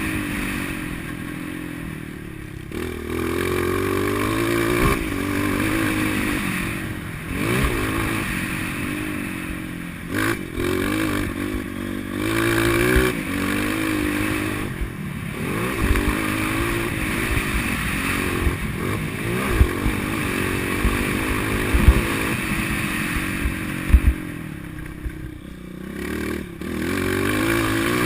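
Motocross dirt bike engine revving up and dropping off again and again as it runs round the track, with occasional sharp knocks and rattling.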